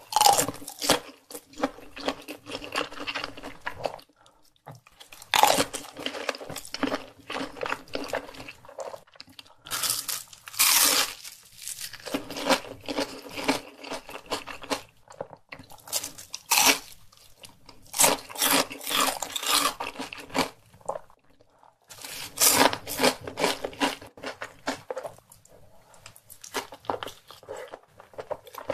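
Close-miked chewing and crunching of crispy fried food, with hash brown and sausage among it, in several bouts of sharp crunches broken by brief pauses.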